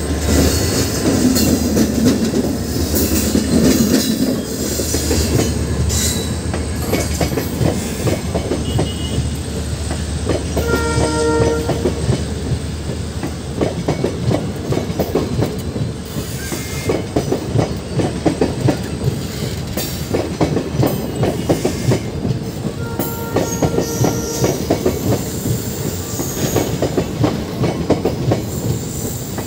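Freight train passing close by: in the first few seconds the locomotives, WDG4 diesels with a WAG9 electric, go by with a low rumble. Then the NMG wagons roll past with a fast, steady clickety-clack of wheels over the rail joints. A short steady tone sounds about eleven seconds in, and again more faintly a little before the last quarter.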